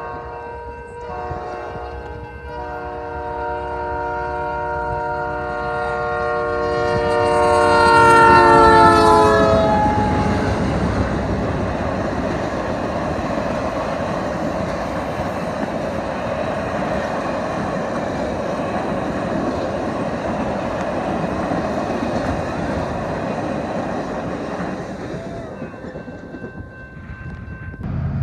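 Passenger train's multi-note air horn sounding for about ten seconds, loudest just before its pitch drops as the locomotive passes. Then the steady rumble and clatter of the Canadian Pacific passenger cars rolling by on the track, fading near the end.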